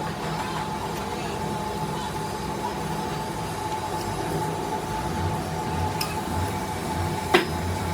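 A machine running steadily with a constant hum and a thin steady whine, with a sharp metallic clink near the end.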